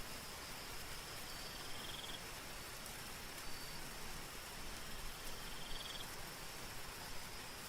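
Soft steady rain with a continuous high insect drone over it, and short trilled chirps twice, about four seconds apart.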